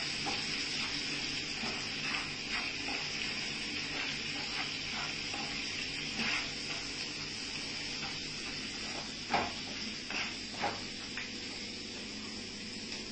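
Diced potato, cabbage and onion sizzling steadily in a frying pan, with a wooden spatula scraping and tapping against the pan as they are stirred; two sharper knocks come a little past the middle.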